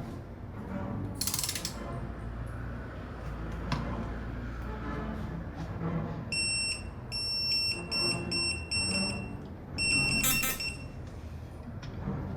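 Electronic beeping: a high, steady beep repeated in a broken series of short beeps for about three seconds, starting about six seconds in. Short hissy bursts sound around a second in and again near ten seconds, over low clatter.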